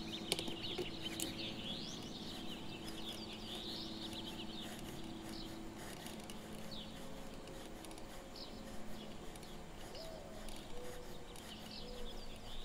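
Small birds chirping repeatedly in the background, short quick chirps, over a low steady hum that fades out about halfway through.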